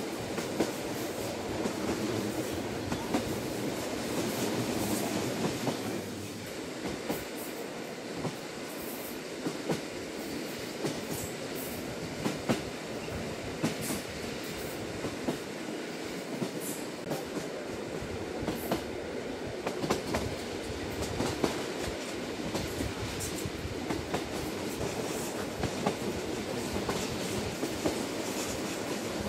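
Lilac limited express train running, heard from inside the carriage: a steady rumble of wheels on track with sharp clicks about once a second. The rumble eases a little about six seconds in.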